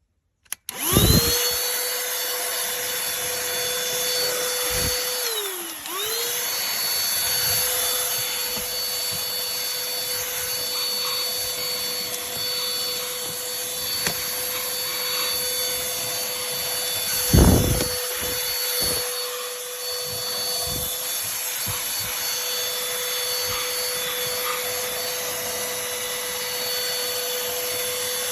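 Cordless handheld vacuum cleaner running: its motor switches on about a second in with a steady hum and high whine, briefly spins down and back up about five seconds in, then runs on steadily. A few knocks from handling the unit, the loudest just past the middle.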